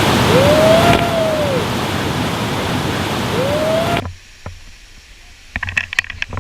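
Loud, steady rush of a waterfall, with a clear tone that rises and falls twice over it. About four seconds in it cuts off suddenly to a much quieter stretch with a few sharp clicks and knocks.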